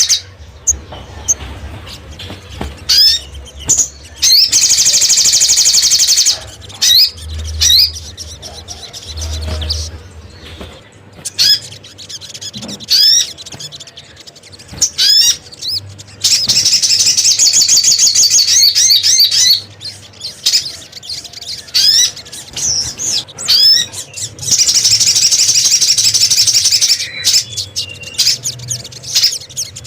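Lure call of the sogok ontong (little spiderhunter): long, loud, high rapid trills lasting a few seconds each, with short, sharp, rising single call notes between them.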